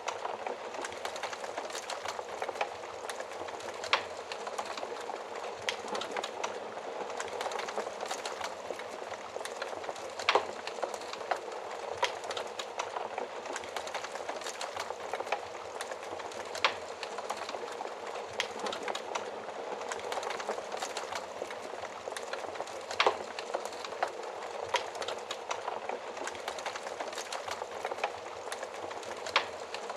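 Wood fire burning in an oven fireplace: a steady rush of flame with constant small crackles and a louder sharp snap every several seconds.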